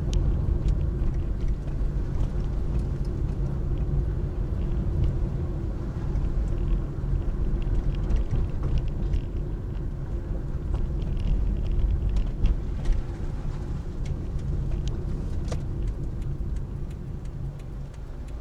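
Car running: a steady low rumble with a constant engine hum, and scattered small clicks and rattles.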